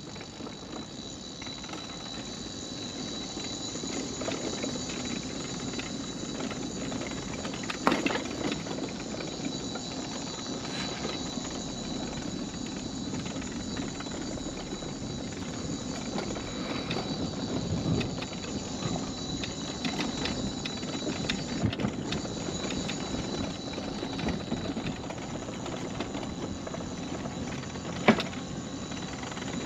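Electric mobility scooter travelling along a wooden boardwalk: a steady high motor whine over the wheels rattling and clicking across the boards, with two sharp knocks, about eight seconds in and near the end.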